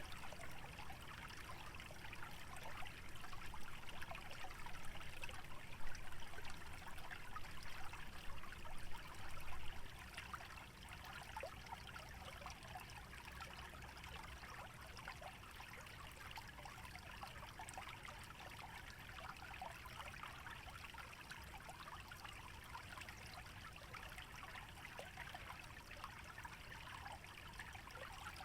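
Shallow wetland stream trickling and burbling steadily over the ground, a busy patter of small water sounds. It is a little louder and more uneven for the first ten seconds or so, then settles.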